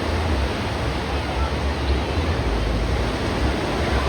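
Wind buffeting the microphone, a gusty low rumble over a steady rushing hiss.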